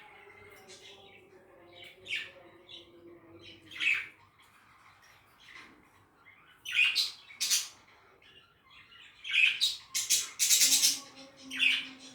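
Budgerigars chirping and squawking in short, sharp calls, spaced out at first, then a dense run of loud chatter about nine seconds in.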